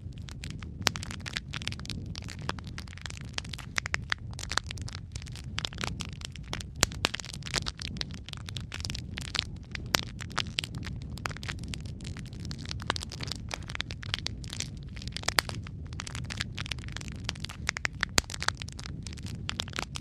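Wood fire crackling steadily, with a low rumble of flame under dense, irregular snaps and pops and a few louder cracks scattered through.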